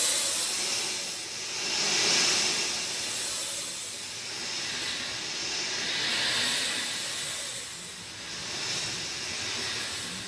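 Steady rain falling, an even hiss that swells and fades in slow waves every few seconds.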